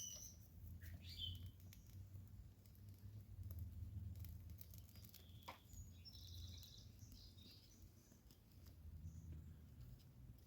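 Near silence: a few faint bird chirps, including a quick run of short high notes about six seconds in, over a steady low rumble and scattered light clicks.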